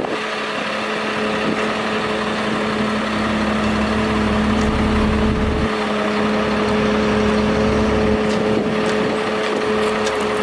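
Utility truck engine running at idle with a steady hum; the low rumble swells for a few seconds in the middle.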